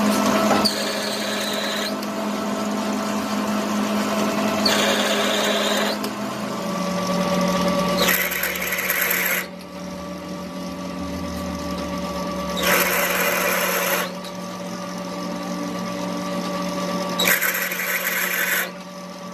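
A workshop machine's motor running steadily, broken by five bursts of harsh cutting or grinding noise, each a little over a second long, while metal is worked on a truck axle.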